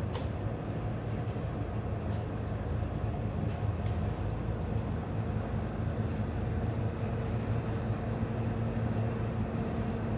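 Ship's diesel engines running with a steady low drone, with a few faint ticks over it.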